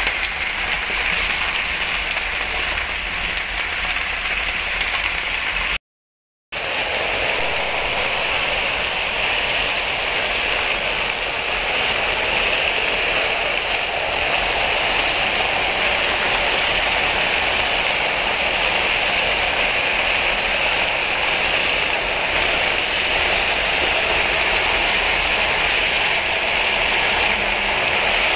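Frozen bitter gourd slices with onion and green chillies sizzling steadily in hot oil in a pan, with a brief break in the sound about six seconds in.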